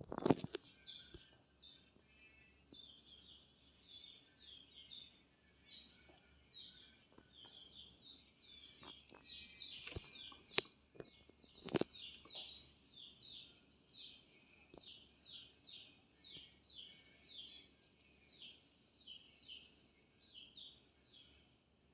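A small bird peeping over and over, short high chirps about two or three a second, with a few sharp knocks near the start and again around the middle.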